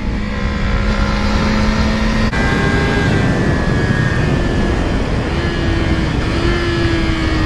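Yamaha R6 inline-four engine running hard at speed on track, with wind rush. The note holds steady, changes abruptly about two seconds in, then climbs slowly.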